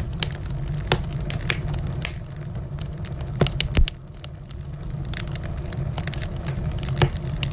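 Wood fire crackling and popping in a fireplace: irregular sharp pops over a steady low rumble, with a cluster of louder pops about halfway through.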